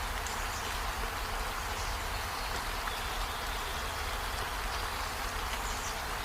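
Steady rainfall, an even hiss of rain falling on surfaces with no break or change.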